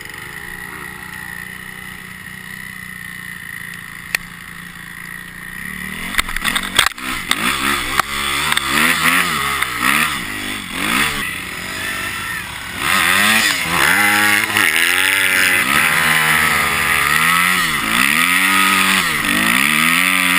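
Kawasaki KX250F single-cylinder four-stroke dirt bike engine running low and steady at first, then, about six seconds in, revving hard up and down again and again as the bike is ridden uphill, loudest in the second half.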